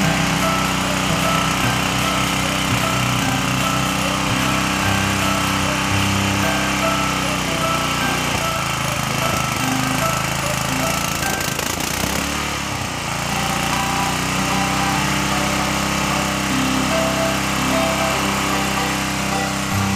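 Small engine of a portable water pump running steadily. Its sound dips and wavers briefly about two-thirds of the way through, then settles again.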